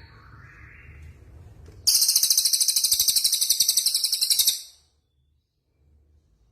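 Songbird singing: a few soft whistled notes, then a loud, very high, rapid trill starting about two seconds in. The trill lasts under three seconds and cuts off sharply, with a faint low hum under the quieter parts.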